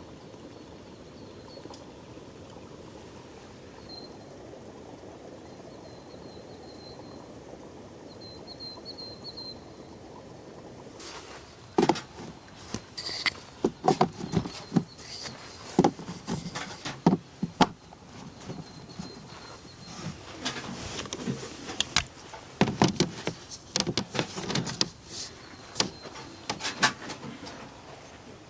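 Steady hiss of rain with a bird chirping faintly. About a third of the way in, irregular sharp knocks and clatter of things being handled begin and carry on to the end, louder than the rain.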